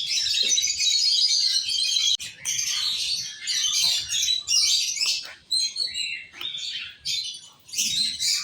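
African lovebirds chattering with rapid high chirps and squawks. The chatter is a dense, unbroken stream for about the first two seconds, then breaks into shorter bursts.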